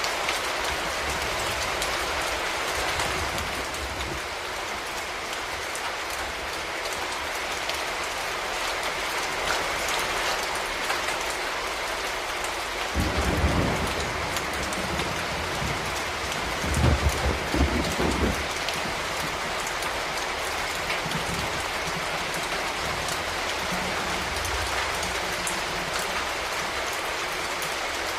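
Steady rain falling, an even hiss of many drops. About halfway through there are two brief low rumbles a few seconds apart.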